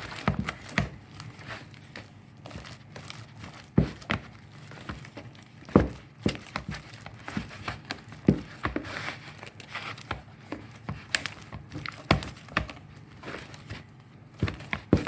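Thick, freshly microwaved poundo yam dough being turned in a bowl with a utensil: irregular knocks of the utensil against the bowl, with soft crackling between them.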